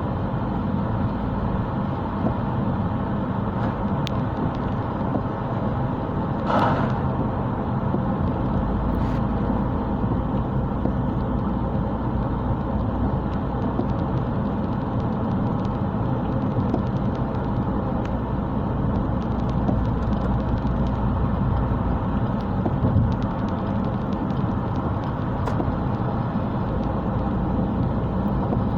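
Car engine and road noise while driving, steady throughout, with a brief higher-pitched sound about six and a half seconds in.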